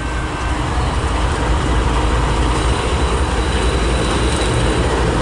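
Freight train of grain hopper cars passing close behind a CSX locomotive: a heavy rumble and rolling rail noise that grows louder over the first second and a half, then holds steady.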